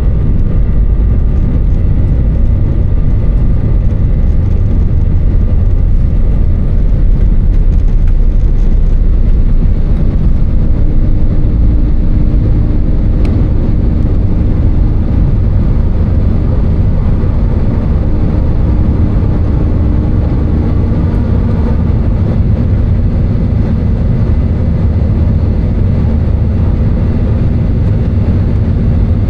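Airbus A320 cabin noise: a steady, loud low rumble of the engines and airflow heard inside the cabin, with a faint steady hum coming and going partway through.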